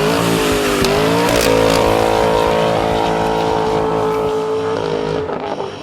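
Car engine revving through a performance exhaust: the pitch climbs over the first second and a half, holds high and steady, then falls away near the end.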